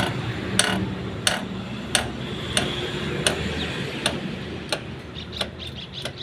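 Sharp metallic taps at a steady, even pace of about one and a half a second, from hand-tool work freeing a stuck diesel injector nozzle on a Maruti Suzuki Swift engine. A low steady hum runs underneath.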